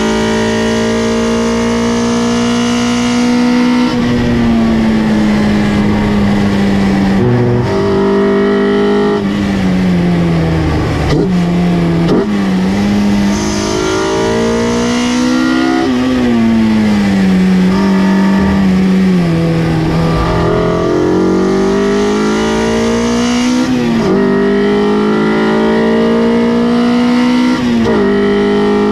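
Honda K-series four-cylinder in a swapped Mazda Miata, heard from inside the cabin under hard track driving: revs climb steadily with sharp drops at each upshift, fall away twice as the car slows with quick downshift blips, then climb again through the gears.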